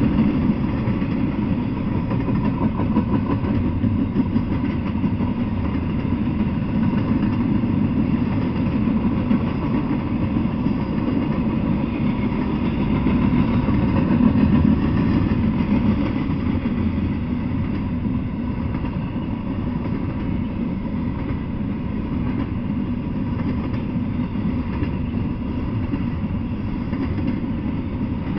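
Double-stack intermodal freight train rolling past: a steady rumble of wheels on rail that runs without a break, a little louder about halfway through.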